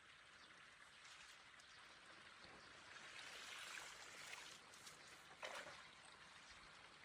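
Faint running water, a soft steady trickle that swells a little about halfway through, with one brief sharper sound near the end.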